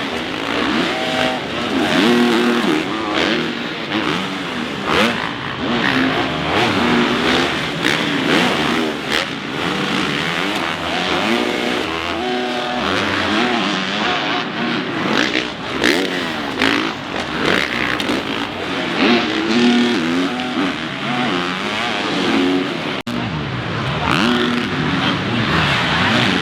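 Dirt bike engines revving up and down on a supercross track, several bikes at once, their pitch rising and falling as they accelerate and shut off through the jumps and turns.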